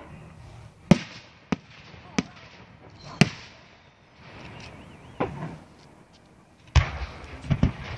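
Aerial firework shells bursting in the sky: about eight sharp bangs at uneven intervals, the loudest about a second in and just after three seconds, with two bangs close together near the end.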